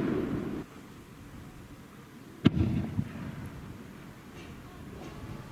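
Aerial firework shells bursting. The rumbling tail of one burst fades out in the first half second, a sharp bang comes about two and a half seconds in, followed by a rumbling echo and a smaller crack, and another bang lands right at the end.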